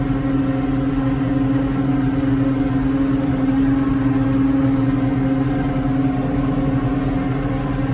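Farm tractor engine running steadily at an even pitch as the tractor is driven along, heard close up from the driver's seat.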